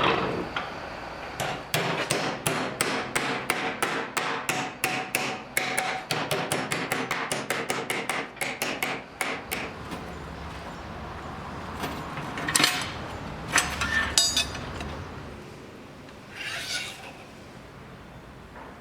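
A hammer striking in a quick run of blows, about five a second, for several seconds, then stopping. A few separate louder knocks follow.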